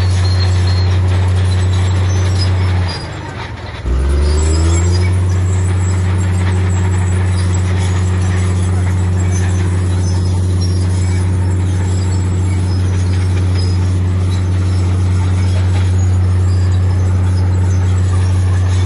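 Heavy diesel earthmoving machinery running under load: a steady low engine drone. About three seconds in the engine note drops out briefly, then comes back with a quick rise in pitch.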